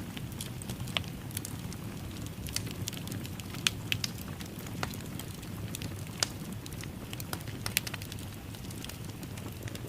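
Fire crackling in a fireplace: a steady low rumble of burning, with irregular sharp pops and snaps scattered through it, several louder pops standing out.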